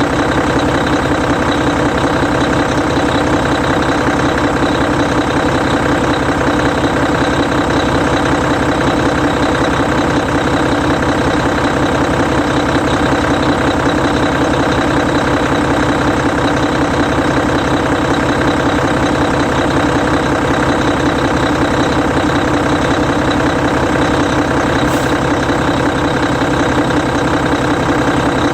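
Hino E13C 12.9-litre inline-six diesel in a Hino Selega bus idling steadily. There is a faint click near the end.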